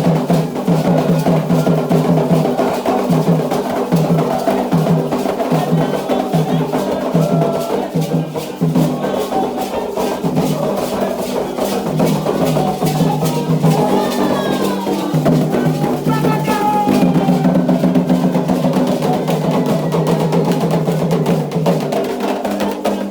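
Candomblé ritual drumming: atabaque hand drums playing a steady rhythm, with a struck percussion part clicking along on top.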